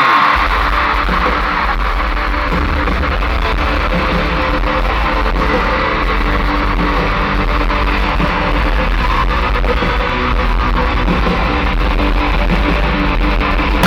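Loud rock music with guitar and a heavy bass coming over an arena PA, recorded with poor, muddy sound. The bass kicks in suddenly about half a second in.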